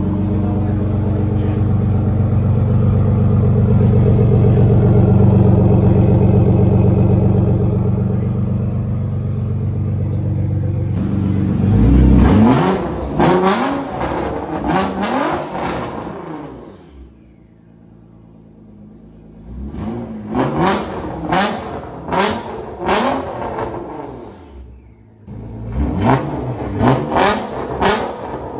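Nissan GT-R engine idling steadily, then revved about twelve seconds in with a run of quick throttle blips, followed by two more bursts of blips later on.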